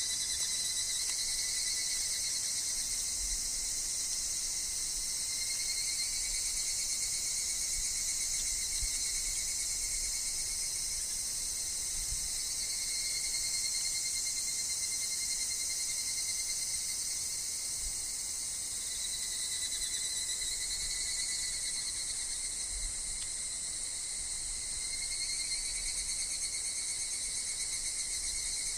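Steady, shrill chorus of summer insects, higurashi (evening cicadas) among them, trilling without a break and slowly wavering in strength. A faint low wind rumble lies underneath.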